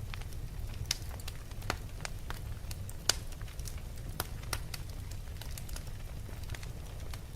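Wood fire crackling: irregular sharp pops and snaps over a steady low rumble, with one louder snap about three seconds in.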